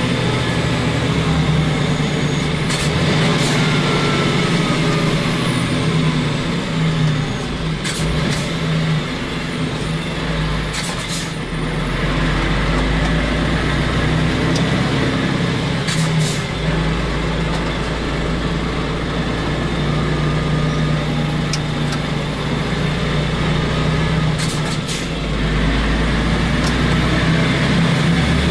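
Truck diesel engine running under way, heard from inside the cab through the open roof hatch, with a steady hum and a low rumble that swells and eases with the load. A few brief hisses cut through it, at about 3, 8, 11, 16 and 25 seconds in.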